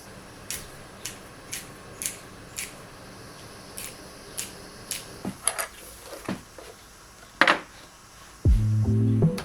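A series of light, sharp clicks or taps, at first about two a second, then irregular, with one louder clack about seven and a half seconds in. Background music with plucked-string tones starts about a second before the end.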